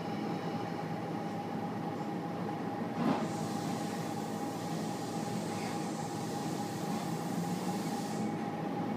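Electric suburban train heard from inside the carriage as it pulls away from the platform: steady running noise with a constant whine. A single knock comes about three seconds in, followed by a hiss that lasts until near the end.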